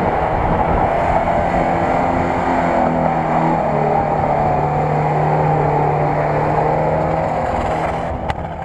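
Off-road 4x4's engine running steadily under load through mud, its pitch stepping up a little partway through and then holding. The sound fades out near the end.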